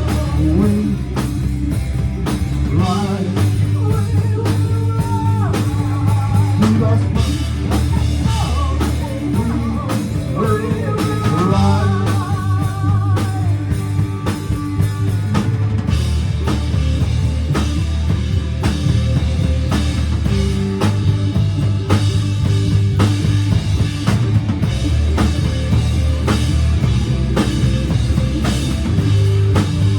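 Rock music: a band with drum kit, bass and guitar playing a steady beat, with singing mostly in the first half.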